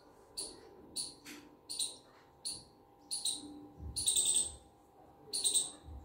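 A bird chirping over and over: short, high chirps about once or twice a second, with a faint steady hum underneath.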